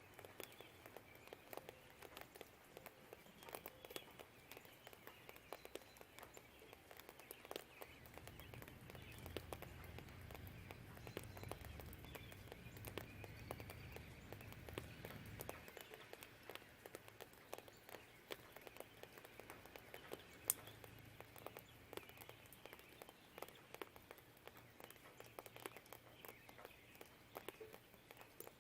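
Faint rain ambience of scattered raindrop ticks with distant birdsong. A low distant rumble swells from about seven seconds in and stops abruptly about halfway through. One sharper drip about twenty seconds in is the loudest sound.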